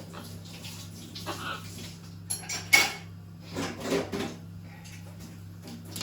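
A few sharp clinks and knocks of hard objects being handled, the loudest nearly three seconds in, over a steady low hum.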